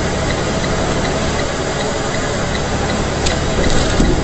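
Steady road and engine noise inside a semi-truck's cab while driving, with a light, regular ticking about two or three times a second. A few sharper clicks come near the end.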